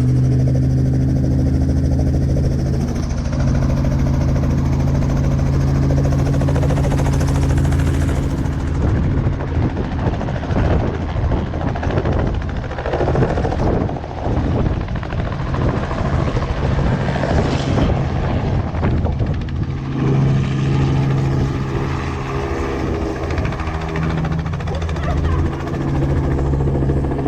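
Helicopter running, a loud steady drone of engine and rotor. For several seconds in the middle it turns rougher, with a rapid chopping sound, then settles back into the steady drone.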